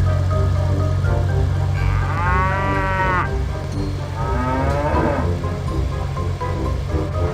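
Two drawn-out mooing calls, a cartoon cow sound effect, the first arching up and down in pitch, over a steady background tune.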